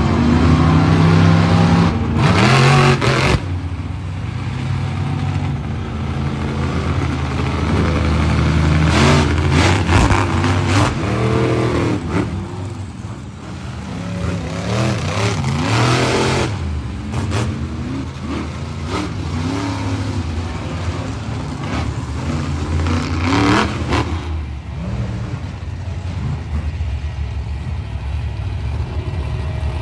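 Motorsport-show vehicle engines running and revving repeatedly, pitch rising and falling, with several brief louder surges.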